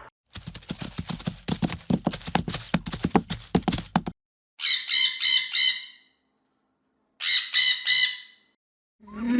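A rapid run of clicks or taps, then two harsh, pulsed squawking calls from a bird, each lasting a little over a second with a short gap between them.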